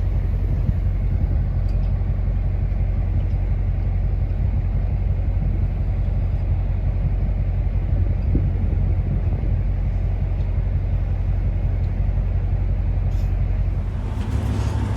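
Car engine running steadily at idle, a low even rumble; the sound shifts abruptly near the end.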